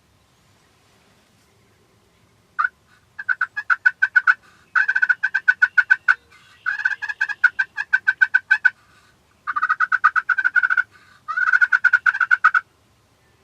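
Rapid, sharp turkey hen cutting: a single note, then five quick runs of raspy notes at about eight a second, loud and close.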